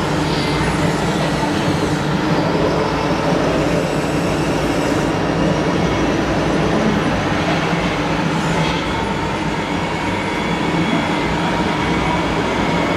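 Remote-control model trucks running, a steady mechanical drone of small electric motors and gearing with faint whining tones.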